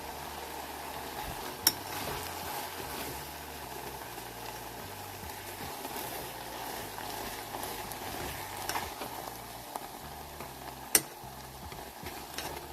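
Butter sizzling steadily in a pan, with two sharp clicks, one about two seconds in and one near the end.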